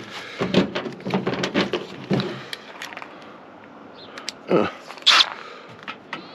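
Clicks and light rattling of small metal tool parts being handled, as a driver bit is fitted into a drill. There is one short falling squeak a little past halfway.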